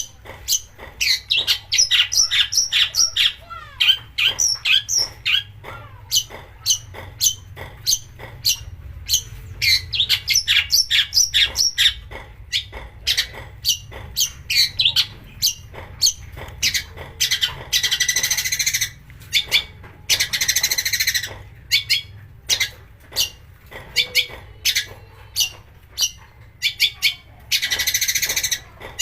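Long-tailed shrike (cendet) singing a fast, busy run of sharp chirps and clicking notes, broken three times in the second half by harsh rasping calls of about a second and a half each.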